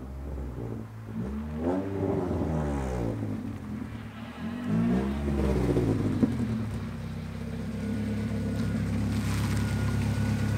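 Acura Integra's four-cylinder engine pulling the car in from down the lane: the revs rise and fall twice in the first six seconds, then the engine runs at a steady low speed as the car rolls up close.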